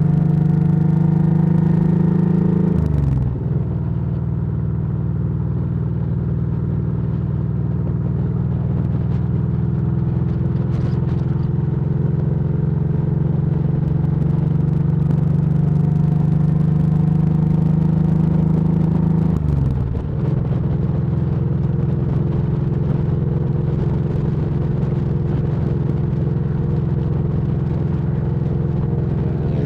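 Motorcycle engine running steadily under way. The engine note dips sharply twice, about 3 seconds in and about 19 seconds in.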